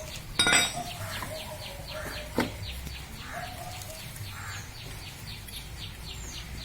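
A metal hand tool clanks once against scooter parts about half a second in and taps again near two and a half seconds in. Faint, even high chirping repeats at about five a second underneath.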